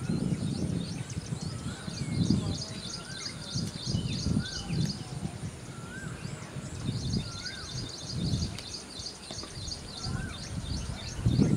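Birds calling in trees: one repeats a short rising-and-falling whistle about once a second over a fast, steady chatter of high chirps, with a low, gusty rumble underneath.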